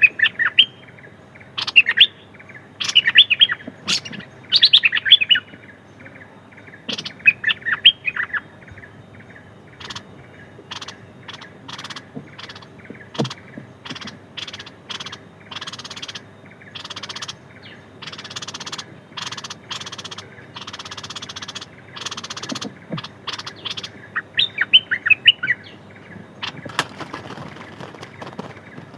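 A small songbird chirping in quick bursts of rapid, slurred notes, loud and close, several times in the first few seconds and again near the end. In between comes a run of short clicks and rustling noises.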